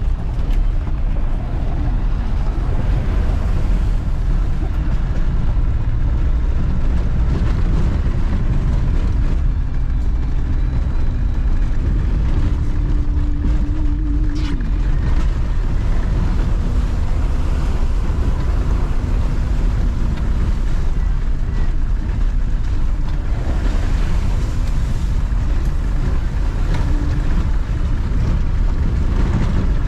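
Diesel Land Rover driving along, its engine and road noise running steadily under heavy wind buffeting on the microphone.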